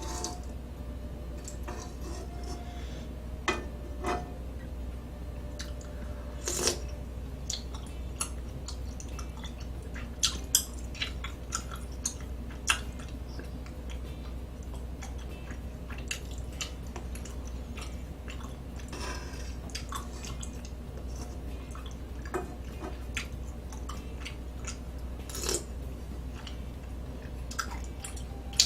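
A person chewing and eating, with scattered sharp clicks and taps of utensils against dishes, over a steady low hum.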